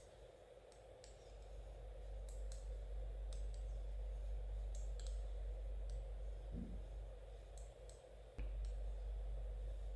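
Knitting needles clicking softly and irregularly as stitches are worked, over a low steady hum.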